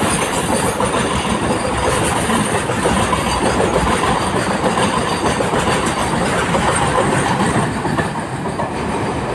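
Train running along the track, its wheels clattering steadily over the rails; the noise eases slightly near the end.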